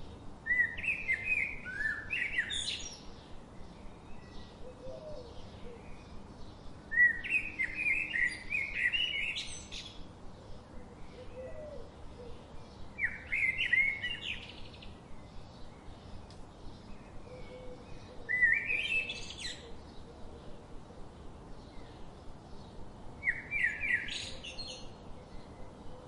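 A songbird singing short, fast, twittering phrases, five in all, spaced about five seconds apart. Between the phrases there is a faint, steady, rapid ticking.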